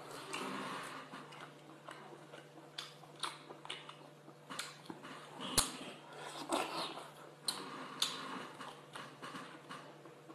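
Close-up eating sounds of a man chewing soft, sauced scallop adductor meat: wet mouth smacks and small clicks at an uneven pace, with one sharper knock about five and a half seconds in.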